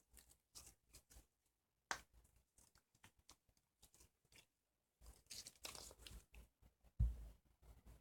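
Glue slime being handled: faint scattered crackles and clicks, with a sharp pop about two seconds in, a cluster of crackling a little past halfway, and a sharper pop with a low thump near the end.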